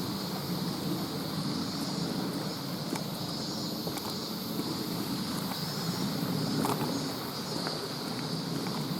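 Steady rush of a mountain stream, with faint scattered clicks from the old camcorder's loose monitor unit.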